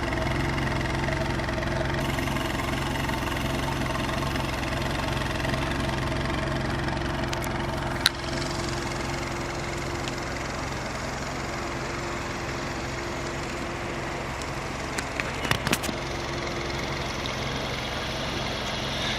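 2013 Nissan Juke Nismo's 1.6-litre turbocharged four-cylinder idling steadily, heard at its single exhaust. A sharp click about eight seconds in and a few light clicks near the end.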